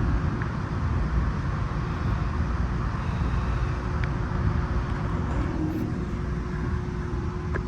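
Passenger train rolling along the track, heard from inside the car: a steady low rumble with a faint constant hum and a couple of light clicks.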